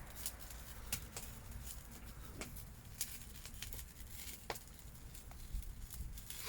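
Fire crackling faintly in a burning metal bin: sparse, sharp pops at irregular intervals over a low steady background.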